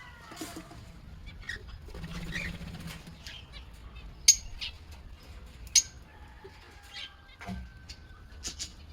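Lovebirds chirping in short, sharp, scattered calls, two of them loud about four and six seconds in, with a faint thin whistle held near the end.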